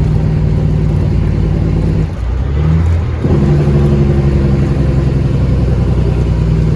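Cat 3406E inline-six diesel in a Freightliner FLD120 semi with its Jake brake (engine brake) on, giving a steady loud pulsing exhaust note as the truck slows. The sound dips and changes pitch for about a second, starting two seconds in, then comes back.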